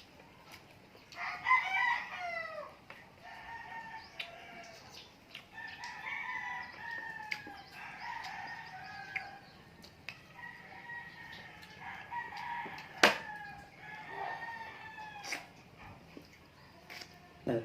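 Chickens: a rooster crowing loudly about a second in, then repeated shorter clucking calls, with one sharp click about thirteen seconds in.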